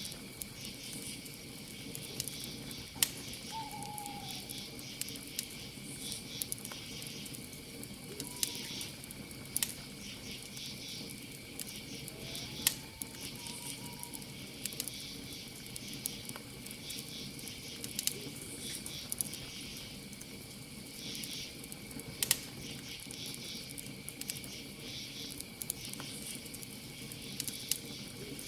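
Campfire burning with sharp crackles and pops every few seconds, a few of them loud, over a steady chorus of crickets chirping. A few short faint whistle-like calls come through now and then.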